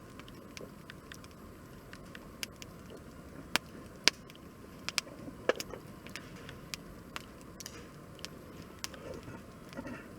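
Wood fire crackling: irregular sharp pops and snaps of burning wood, the loudest a few seconds in, over a steady low rush.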